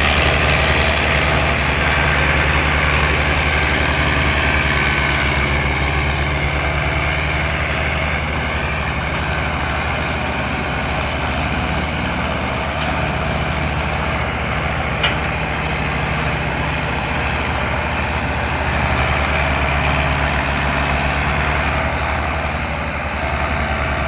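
Belarus tractor's diesel engine running steadily with a deep, even hum, and one sharp click about two-thirds of the way through.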